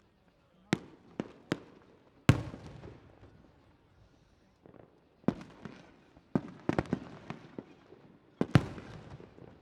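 Fireworks going off in an uneven series of about a dozen sharp bangs, some in quick clusters. The two loudest, about two seconds in and near the end, trail off over about a second.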